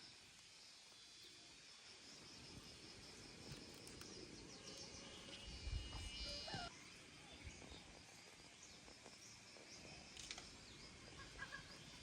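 Faint rural outdoor ambience: a steady high insect chorus with occasional short bird chirps, and a brief low rumble about six seconds in.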